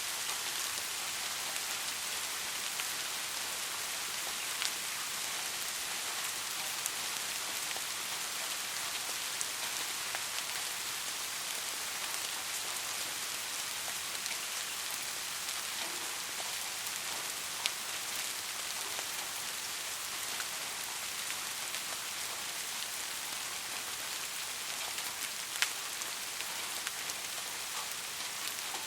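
Steady rain falling, an even hiss with occasional individual drops ticking on close surfaces.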